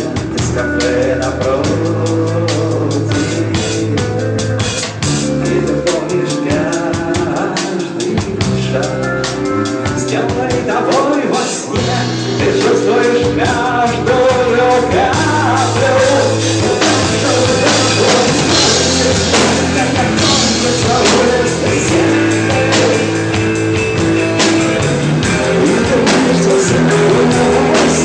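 Rock band playing with drums and guitar, a passage without lyrics; the low end fills out about twelve seconds in.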